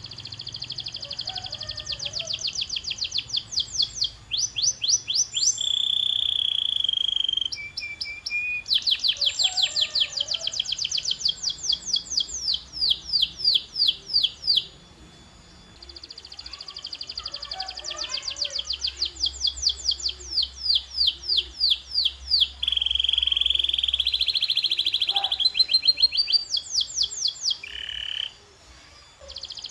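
Domestic canary singing a long song made of fast trills of rapidly repeated high notes, strung into phrases with a few steady, held buzzy notes between them. The song pauses briefly about halfway through and again near the end.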